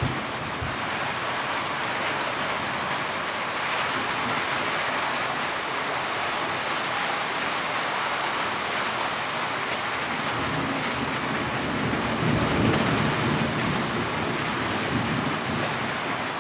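Heavy rain falling steadily. A low rumble of thunder swells about ten seconds in and eases off before the end.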